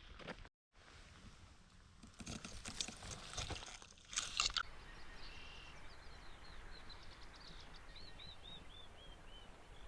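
Faint outdoor quiet with a few scuffs and clicks, then a small bird singing a run of short, clear notes that step down in pitch, about two a second, fading near the end.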